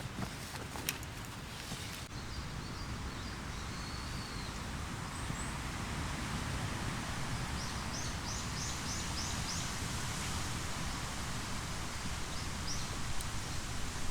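Wind rustling through forest trees, with wild birds calling over it: a few single high chirps and, about two-thirds of the way in, a quick run of six or seven repeated notes.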